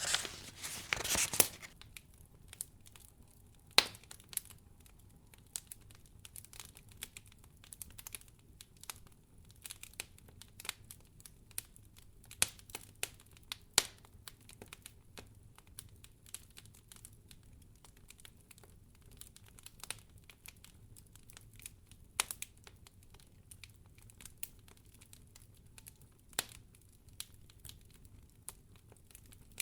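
Wood fire crackling in a fireplace: irregular sharp pops and snaps, a few louder than the rest, with a short rustle near the start.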